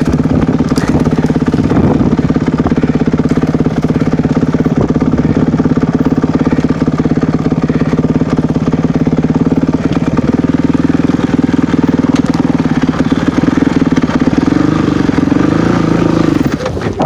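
Dirt bike engine running under steady throttle while being ridden, holding a fairly even pitch. It rises briefly and falls again near the end before easing off.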